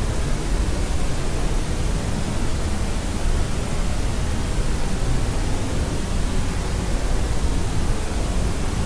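Steady sleep-aid noise: an even, unchanging rush, heavier in the low end than in the highs.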